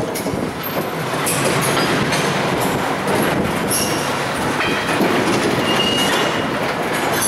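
A freight train rolling past on the rails, its wheels clattering with a few brief high squeals from wheel on rail.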